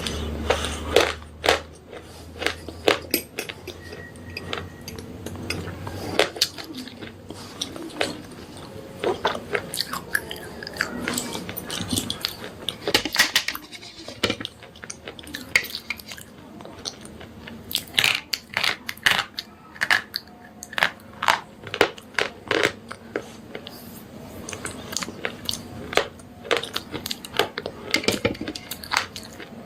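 Slate pencils being bitten and chewed close to the microphone: many sharp, dry crunches and snaps in quick clusters, with a short pause about halfway.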